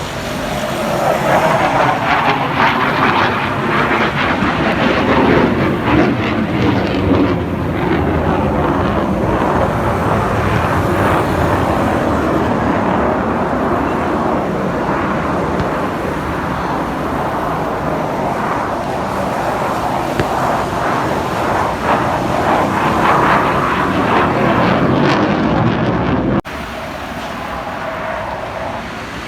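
Fighter jet flying past: a loud, continuous jet-engine rush whose pitch sweeps slowly as it passes. About three seconds before the end it drops suddenly to a quieter background rumble.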